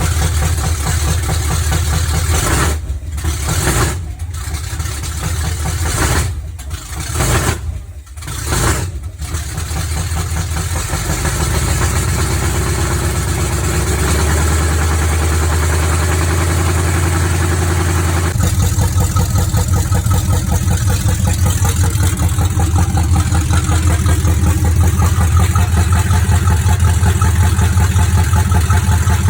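Chevrolet C10 pickup's newly swapped engine running at idle. Its sound drops out briefly several times in the first ten seconds, then settles into a steady idle that gets louder about two-thirds of the way in.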